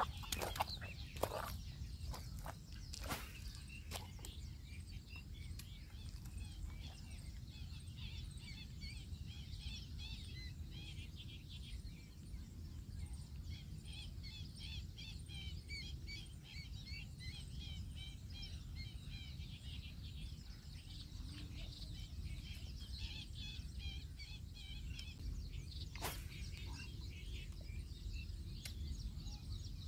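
Many small birds chirping in quick, high calls over a steady low background rumble, with a few sharp clicks near the start and one more near the end.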